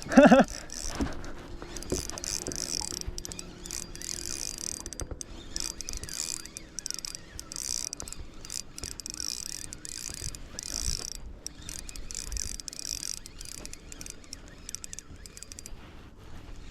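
Shimano Autograph 4000 spinning reel being cranked as a hooked pike is reeled in, in spells of a second or two with short pauses between.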